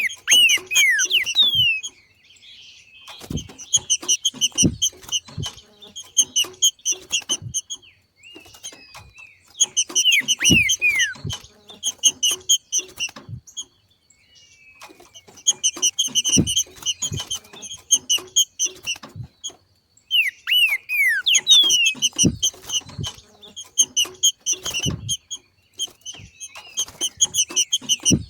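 Green-winged saltator (trinca-ferro) giving its chattering 'macheado' call: bouts of rapid, sharp repeated notes, several opening with a few quick downward-sliding whistles, returning every few seconds with short pauses between.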